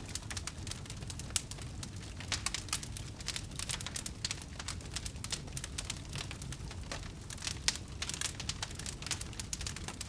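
Wood fire crackling in a fireplace: a dense stream of irregular sharp pops and snaps over a low steady rumble of the flames.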